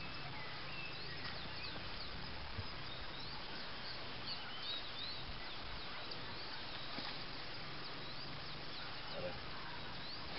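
Birds chirping: many short, high calls scattered over a steady outdoor background hiss.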